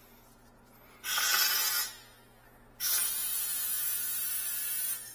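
Two hissing blasts of pressure blown through an F&T steam trap's line: a short one about a second in, then a longer one of about two seconds, each cut off sharply. It is a blow-through test of whether the trap's line is clogged.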